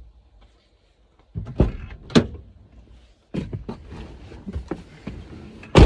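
A series of sharp knocks and clunks, irregularly spaced, with the loudest impact near the end.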